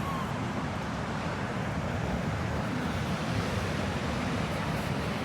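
Steady wash of ocean surf mixed with wind buffeting the microphone, an even rushing noise heaviest in the low rumble.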